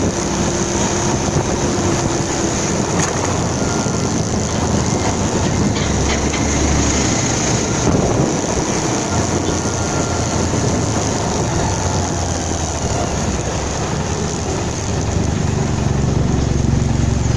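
Motorcycle running along the road, its engine note under a steady rush of wind and road noise, the engine growing louder near the end.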